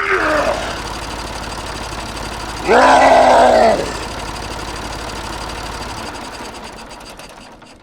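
A small engine running with a fast, even rattle that fades away near the end. About three seconds in, a loud cry lasting about a second, with a short gliding cry at the very start.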